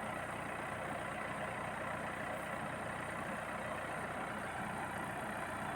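Combine harvester's diesel engine and threshing machinery running steadily.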